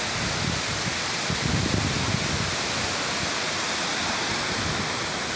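A tall waterfall's steady rush of falling water. A brief low rumble swells up about a second and a half in.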